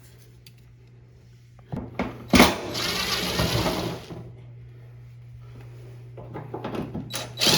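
Hands working on a front-loading washing machine during a door-seal replacement. A few clicks and a sharp knock come about two seconds in, then nearly two seconds of loud scraping and rustling as parts are handled and pried, then scattered small clicks. A steady low hum runs underneath.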